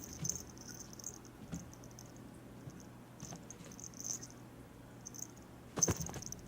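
A kitten's paws and claws scrabbling and tapping on the floor as it chases a laser dot, with one sharp thump near the end as it lands a pounce.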